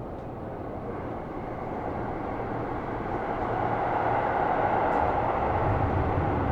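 Seibu New 2000 series electric train running, heard from inside the car: a steady rumble of wheels and running gear that grows gradually louder.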